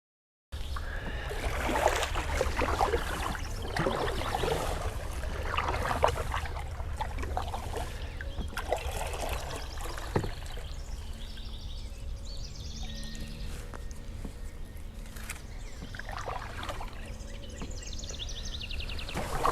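Canoe paddle strokes, water splashing and dripping off the blade about every two seconds, over a steady low rumble of quarry machinery working in the background.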